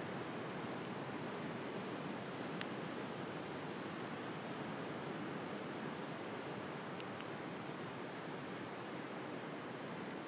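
Steady wash of sea waves with a wood fire crackling over it: one sharp pop a couple of seconds in and a few lighter snaps later on.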